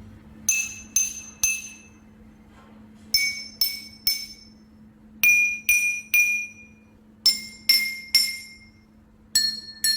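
A spoon tapping five drinking glasses of water in turn, three taps on each, every tap leaving a clear glassy ring. The ringing pitch is highest on the first glass, which holds the least water, and lowest on the last, the fullest: the water level sets the pitch.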